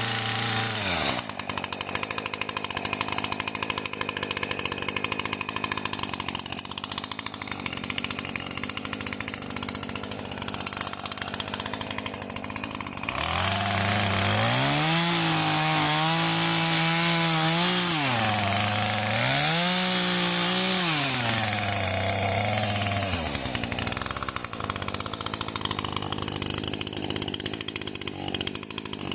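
Chainsaw idling, with a short blip of the throttle at the start, then revved up hard about halfway through: two stretches at full speed with a dip between, as when cutting up hawthorn wood, before dropping back to idle.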